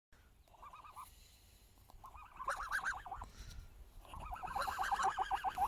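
Gosling trilling: three runs of rapid, evenly repeated short peeps, each run louder than the one before.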